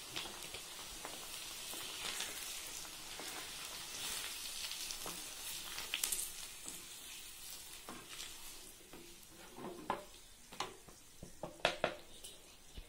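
Potato sticks sizzling as they deep-fry in hot oil, stirred and scraped with a wooden spatula in the pan. The sizzle fades as the fries are lifted out, and a few sharp knocks and scrapes of the spatula come near the end.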